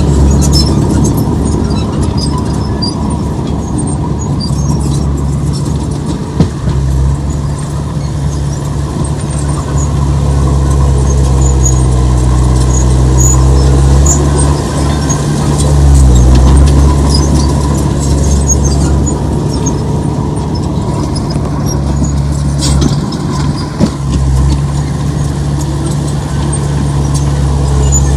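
Heavy diesel engine of earthmoving machinery running under load, a steady low drone that swells about halfway through, with two sharp knocks.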